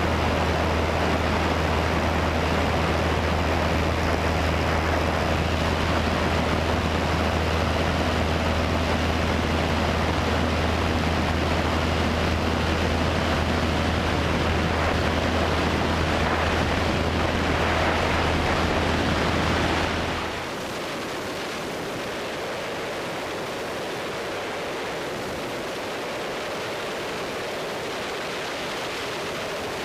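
Cessna 172 cabin noise: the piston engine and propeller droning steadily over a broad rush of air. About two-thirds of the way through, the drone cuts off abruptly, leaving a quieter steady hiss.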